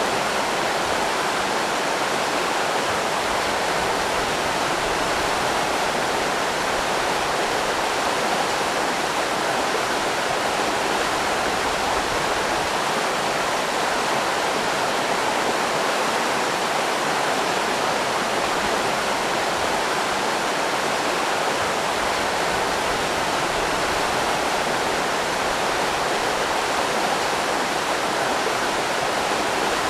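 River rapids rushing, a steady, unbroken flow of water.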